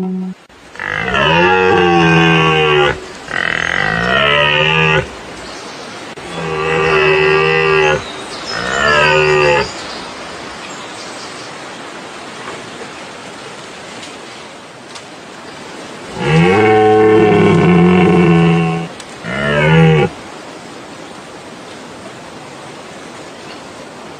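Swamp deer (barasingha) calling: six long, loud, pitched calls in three pairs, each longer call followed by a shorter one that bends in pitch, with pauses between pairs. A steady low hiss runs underneath.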